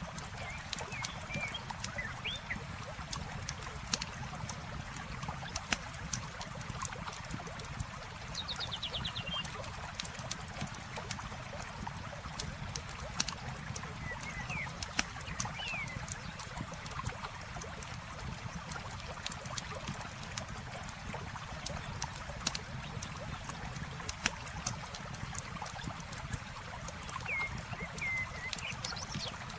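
Wood campfire crackling with frequent sharp pops over the steady sound of flowing river water, with a few short bird chirps here and there.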